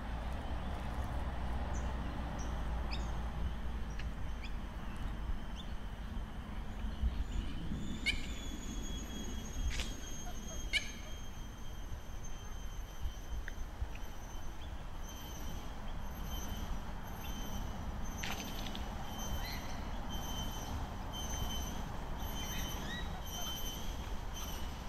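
Birds calling in short, scattered chirps over a steady low rumble. From about eight seconds in, a thin high whine holds underneath the calls.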